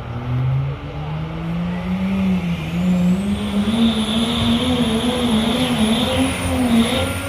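Cummins diesel truck engine pulling hard under load, its pitch climbing and wavering, with a high turbo whistle rising over the first few seconds and then holding.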